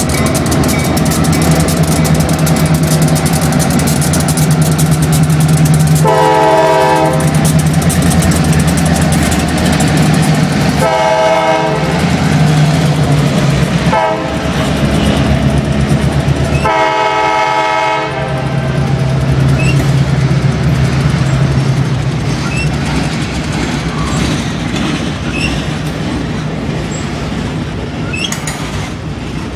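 Wisconsin & Southern diesel freight train passing, the locomotives' engines running low and steady as the empty ballast hopper cars rattle by. The locomotive horn sounds four times: long, long, short, long, the standard grade-crossing signal.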